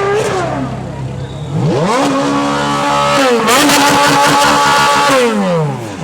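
Ferrari supercar engine revved hard while standing: the revs climb steeply about a second and a half in, hold high with a brief dip, sit high with a harsh crackling rasp for about a second and a half, then fall away near the end.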